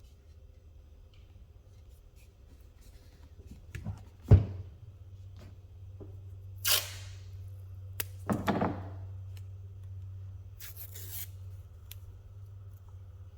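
Workbench handling sounds: a sharp knock about four seconds in, then a few short ripping or hissing bursts and a click, over a low steady hum that comes in after the knock.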